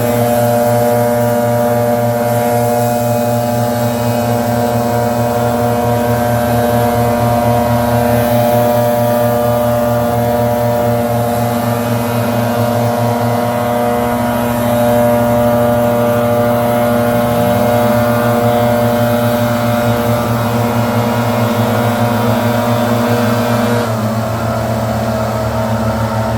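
Gas-powered leaf blower running steadily at high speed, its engine easing slightly near the end.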